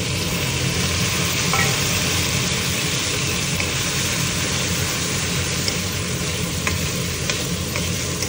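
Chopped tomatoes sizzling in hot desi ghee with browned onions, cumin and green chilli, being stirred in the pan: a steady frying hiss with a few small crackles, over a steady low hum.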